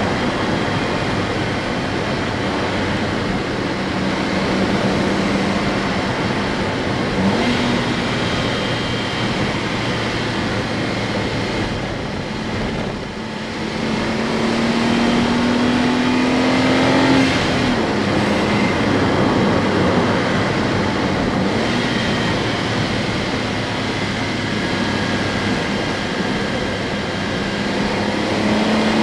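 Honda S660's small turbocharged three-cylinder engine running under way. Its note holds steady, climbs for a few seconds past the middle, then drops suddenly, and builds again slowly toward the end.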